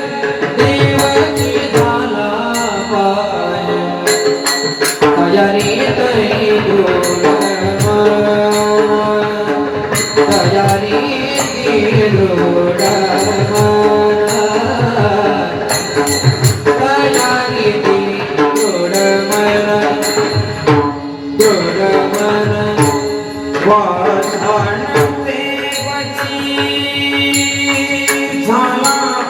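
Devotional bhajan singing with a pakhawaj drum playing a quick, steady pattern of strokes under the voice.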